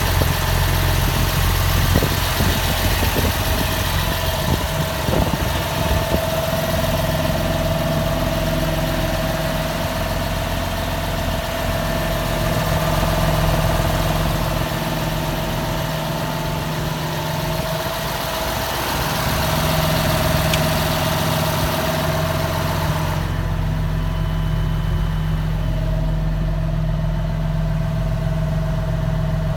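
Massey Ferguson 6480 tractor's diesel engine running steadily at idle, with a steady whine over the engine note. A few clicks come in the first seconds, and the high hiss drops away about two-thirds of the way in.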